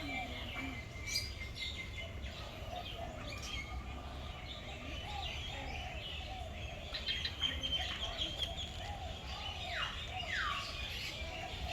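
A mix of birds chirping and calling over one another, with two whistled calls sliding down in pitch near the end, over a steady low rumble.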